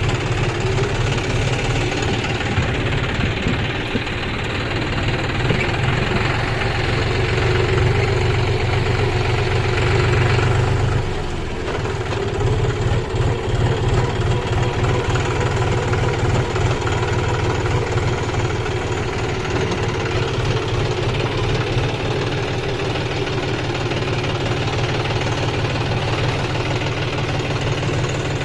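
Kubota combine harvester's diesel engine running steadily, with a brief dip in level about eleven seconds in.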